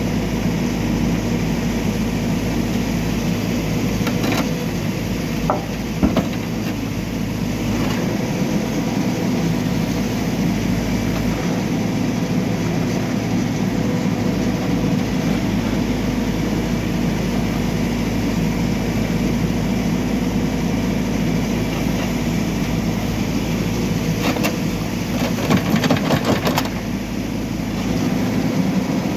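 Backhoe loader's diesel engine running steadily, with a few sharp knocks about six seconds in and a burst of clattering near the end.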